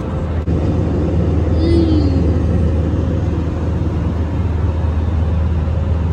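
Steady cabin noise of a jet airliner in flight: an even rush over a constant low hum. About two seconds in there is a brief falling vocal sound.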